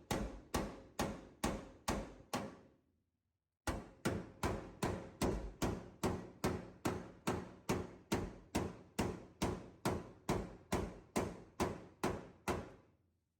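A hammer striking sheet metal in a steady rhythm, about two and a half blows a second, during floor-pan rust repair. The blows stop briefly a little under three seconds in, then resume and fade out near the end.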